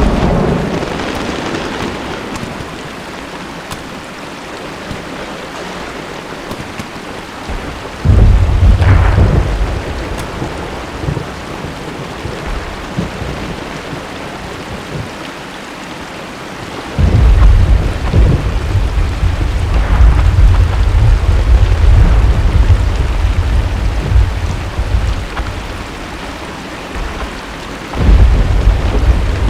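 Steady rain with deep, low rolling rumbles that start suddenly three times: about a quarter of the way in, just past halfway, and near the end. The middle rumble rolls on for nearly ten seconds.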